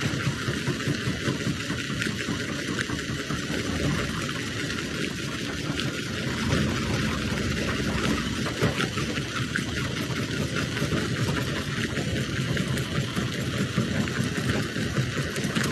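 Jaw crusher running under load: a steady machine rumble with a dense crackle of stone cracking and clattering through it, the clatter growing a little louder near the end.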